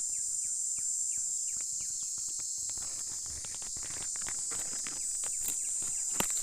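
Steady high-pitched chorus of insects, with many short falling chirps and scattered clicks over it, and a sharper click near the end.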